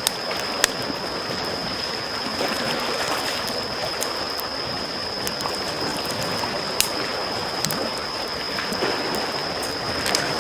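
Wood fire crackling with sharp, scattered pops over the steady wash of small sea waves lapping at the shore. A steady high-pitched tone runs underneath.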